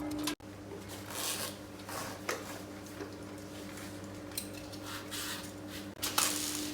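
Short scrapes and clinks of tools or metal parts being handled during air-conditioner installation work, over a steady low hum; a louder scrape comes near the end.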